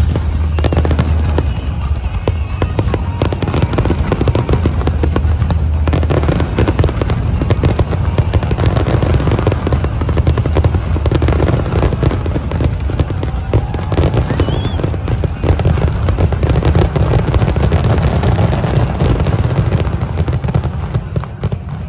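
Fireworks display going off in a dense, continuous barrage of rapid bangs with a heavy low rumble, tapering off near the end.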